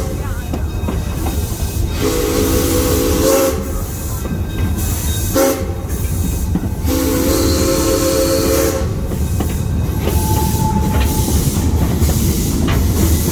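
Zoo train's whistle sounding two long blasts with a short toot between them, over the steady low rumble of the train running.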